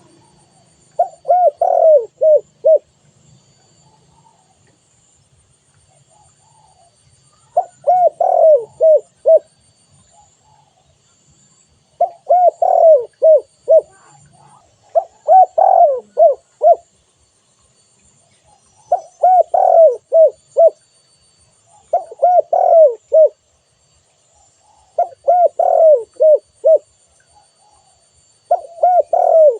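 Spotted dove cooing: a phrase of several short, hoarse coos repeated about every three to four seconds, around eight phrases in all.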